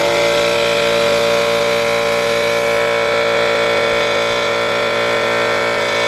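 Air compressor switching on abruptly and running steadily, a loud even motor drone.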